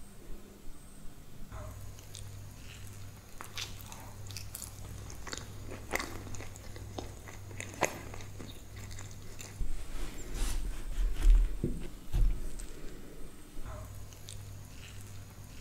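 Someone biting and chewing a French toast omelette sandwich, with scattered short clicks throughout and a few heavier dull thumps about ten to twelve seconds in. A low hum comes and goes underneath.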